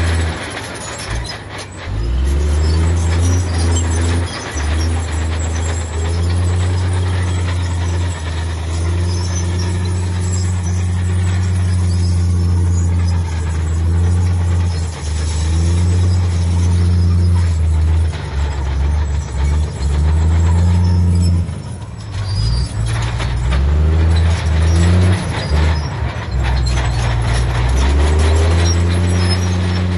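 Heavy diesel engine of earthmoving machinery working under load with a deep, steady drone whose pitch shifts as the load changes. It drops off briefly about a second in and again about two-thirds of the way through.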